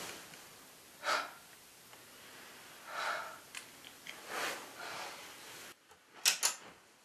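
A woman's heavy breathing and gasps, one breath every second or two, then two short, sharp breaths close together near the end, the loudest sounds here.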